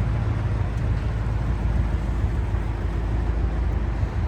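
Steady low rumble of an idling engine, even throughout.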